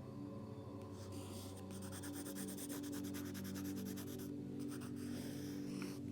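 Sketching strokes scratching on paper in quick runs, starting about a second in and breaking off briefly about four seconds in, over a steady low hum.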